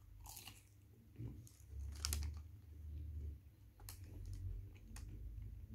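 Someone biting and chewing the crisp batter of a deep-fried Mars bar: faint, irregular crunches and mouth clicks.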